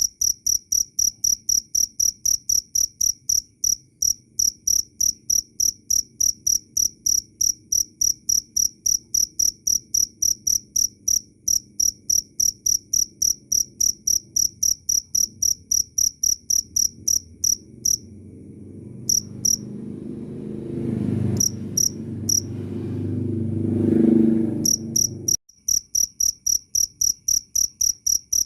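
Cricket chirping loudly, a high, clear chirp repeated evenly several times a second. Past the middle the chirps break up while a low rumble swells. The rumble then cuts off suddenly and the steady chirping returns.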